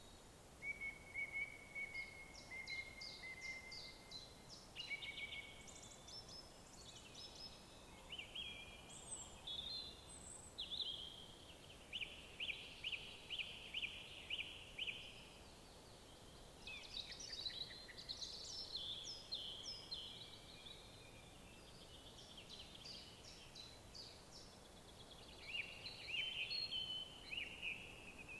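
Several woodland songbirds singing in overlapping phrases of chirps, whistles and fast trills, over a faint steady background hiss.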